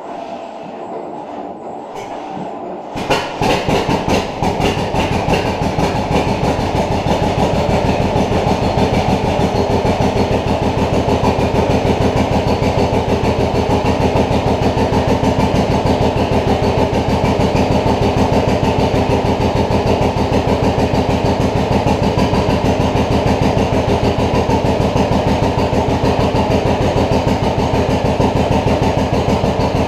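1950 John Deere B's two-cylinder engine being cranked for about three seconds, then catching and running with a steady, rapid pulsing beat on its first start after a cylinder head overhaul.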